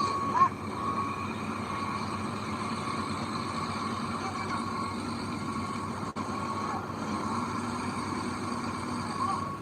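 Heavy diesel machinery running steadily, with a reversing alarm beeping on and off.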